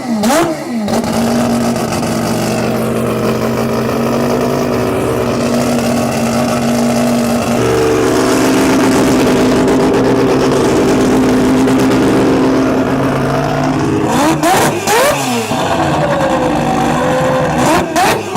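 Mazda rotary engine at high revs. It starts with quick rev glides, then holds steady, steps up to a slightly higher pitch about halfway through, and ends with rapid revs up and down.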